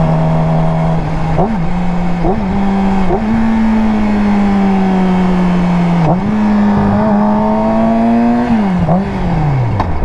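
Yamaha R6 sport bike's inline-four engine under way, with quick gear shifts about one and a half, two and a half and three seconds in, then a steady cruise. The revs climb again and fall off near the end as the bike slows, with wind rushing over the microphone.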